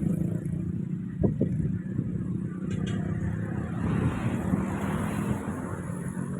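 Strong wind blowing through cogon grass, a steady rushing with low rumbling gusts on the microphone, one stronger surge about a second in.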